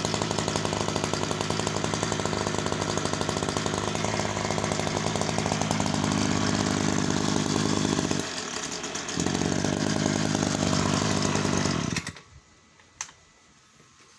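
Ryobi 2370 brush cutter engine running at high speed, easing back briefly for about a second past the middle, then picking up again before cutting off suddenly near the end. A single sharp click follows.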